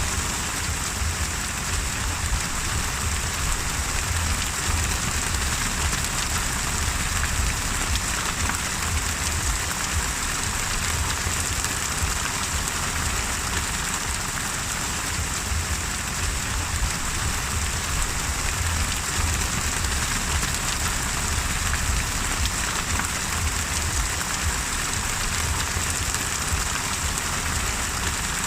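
Steady rain falling without a break, with a constant low rumble underneath.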